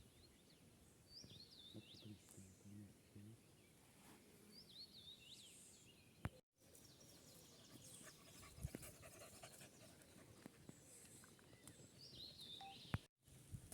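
Faint birdsong outdoors: a bird sings the same short, high, warbling phrase three times, about a second in, about five seconds in and near the end, over a quiet background. The sound cuts out completely for a moment twice.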